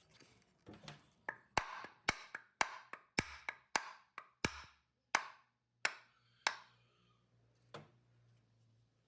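A run of sharp knocks, about two a second, each with a brief ring. They slow and thin out after about five seconds, ending with one softer knock near the end.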